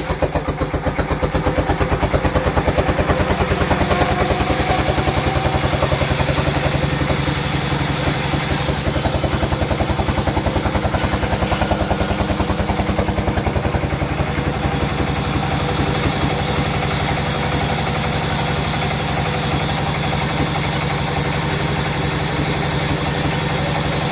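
Sawmill machinery running steadily with a fast, even, engine-like pulse. A hiss in the high range swells for a few seconds in the middle.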